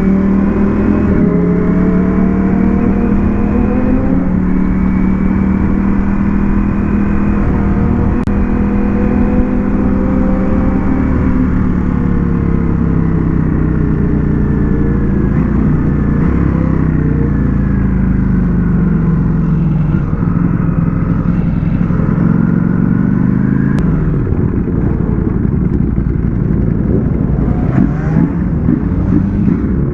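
Ducati Panigale V4 motorcycle engine running under way, its pitch rising and falling slowly as the rider opens and closes the throttle, with a few quicker rises and drops near the end.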